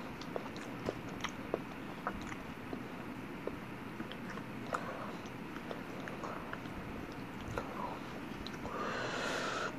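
A person chewing a mouthful of lasagna close to the microphone, with scattered soft wet mouth clicks. A brief breathy hiss comes near the end.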